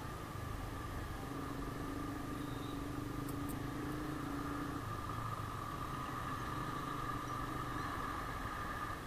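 Yamaha Sniper 150 motorcycle engine running steadily at low revs, without revving.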